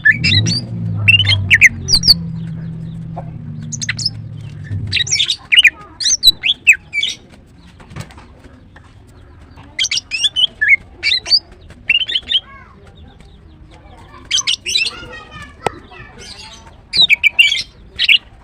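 Female greater green leafbird calling: quick runs of sharp, high chirps and squawks that come in bursts every few seconds. These are the excited calls of a hen in breeding condition, calling for a male. A low steady hum lies under the first few seconds.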